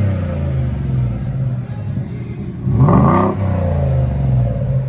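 Ford F-150 pickup engine idling through an aftermarket exhaust, blipped once in a quick rev about three seconds in that rises and falls back to idle.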